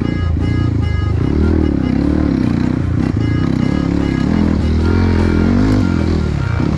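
Dirt bike engine being ridden off-road, its revs rising and falling over and over, about once a second.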